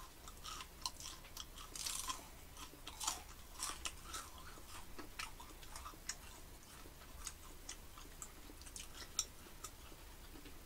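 Crisp pan-fried churros being chewed, with irregular crunches that come thick in the first four seconds, then thin out.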